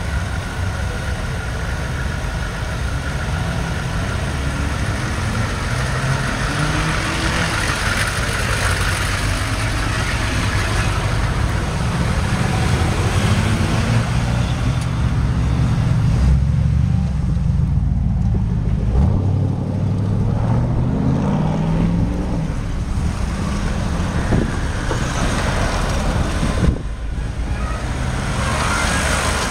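Car engines running and accelerating past, their pitch rising several times as vehicles pull away, over steady road and engine noise.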